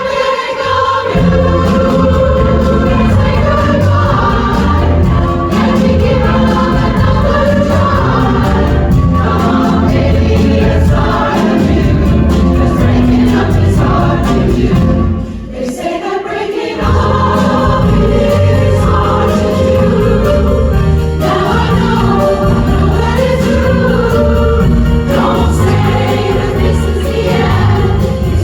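Women's chorus singing a 1950s–60s pop song over instrumental accompaniment with a steady bass beat. The music briefly drops in level about halfway through.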